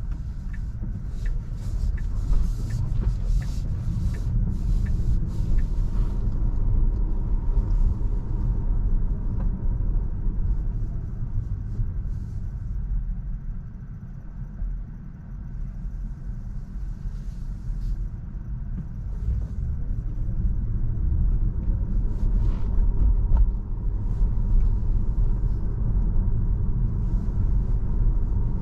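Road and tyre rumble of a Tesla electric car driving, steady and low with no engine note. A regular ticking, about one and a half a second, runs through the first six seconds. The rumble eases briefly about halfway through.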